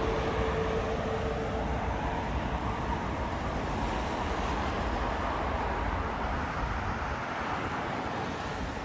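Jet airliner's engine roar on arrival, slowly fading as the aircraft moves away, with a faint whine dying out about two-thirds of the way through.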